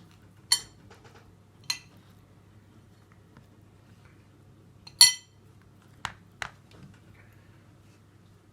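Dishes and utensils clinking: three sharp ringing clinks, the loudest about five seconds in, followed by two duller knocks.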